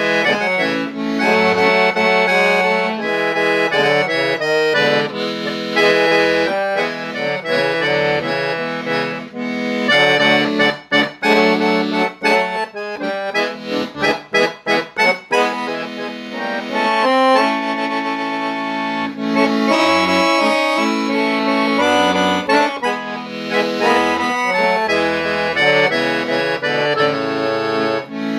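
Accordion playing a melody over sustained chords, with short bass notes now and then. About a third of the way in comes a passage of short, detached notes before the held chords return.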